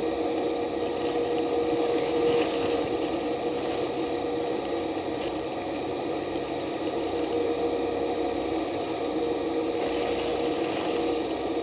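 Stick-welding arc crackling steadily as an electrode burns, with a steady hum underneath.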